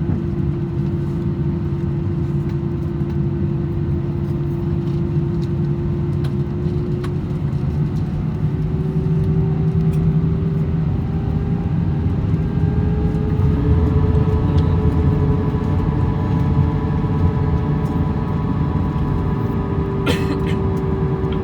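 Airbus A321-200 taxiing after landing, heard from the cabin: a steady rumble under a wheel-brake hum whose pitch climbs slightly, with higher tones joining about halfway through. A short clatter near the end.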